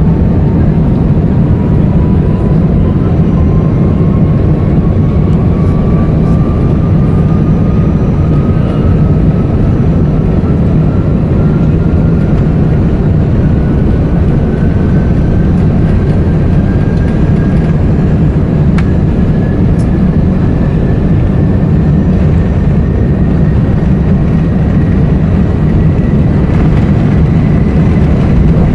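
Airbus A380-861 cabin noise: a loud, steady rumble of the engines and airflow, with a thin whine that rises slowly in pitch all the way through.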